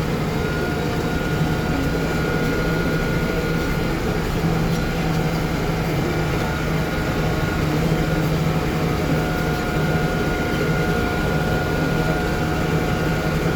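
Farm tractor engine running steadily while pulling a hay rake across the field, a constant hum with a thin, steady high tone over it.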